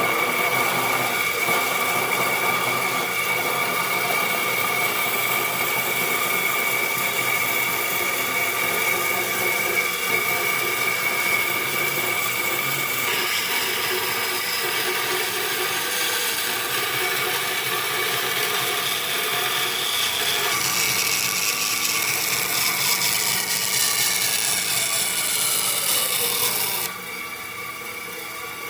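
Woodworking power tool running steadily on wood, a constant machine noise with a fixed whine. Its level drops suddenly near the end.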